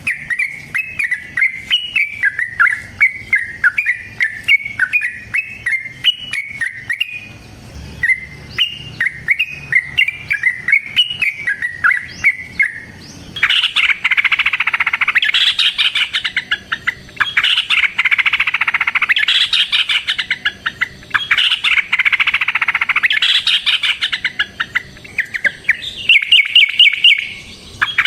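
Yellow-vented bulbul (trucukan) singing: for the first half, a run of quick rising-and-falling chirps. About halfway in, it gives way abruptly to louder, very rapid chattering rolls in long phrases with short breaks.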